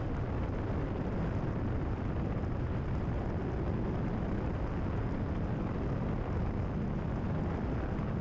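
Cessna 172RG's four-cylinder Lycoming O-360 engine and constant-speed propeller droning steadily at cruise power, heard inside the cabin.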